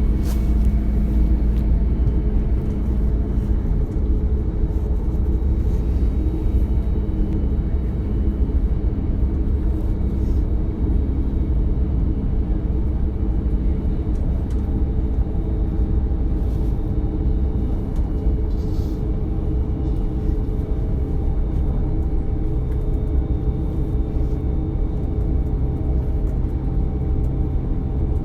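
Cabin running noise of a DB Class 425 electric multiple unit under way: a steady low rumble of the wheels on the track, with several steady tones above it.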